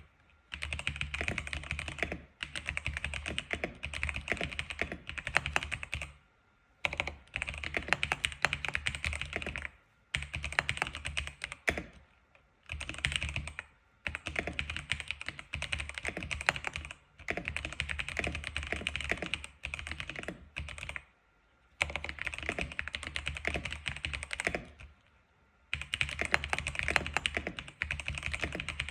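Fast typing on an X87 keyboard, dense runs of key clicks lasting a few seconds each, broken by short pauses.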